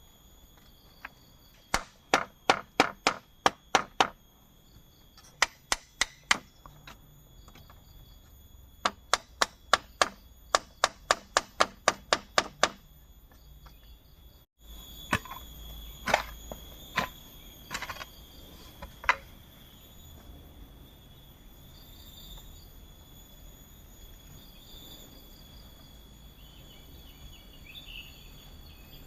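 Sharp strikes on bamboo in quick runs of several a second, from work on a bamboo shelter. About halfway through they stop; a few single strikes follow, and then mostly a steady high drone of forest insects.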